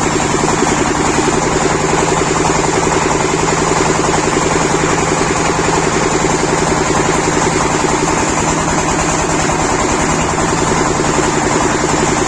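A machine's motor running steadily under a fast, even pulse, with no change in speed.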